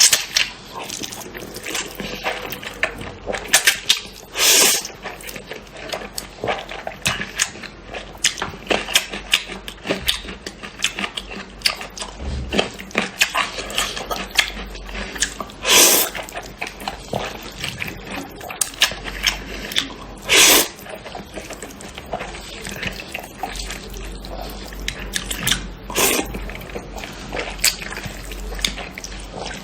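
Close-up wet chewing of instant noodles, with many small mouth clicks and smacks. Four louder slurps come about 4, 16, 20 and 26 seconds in.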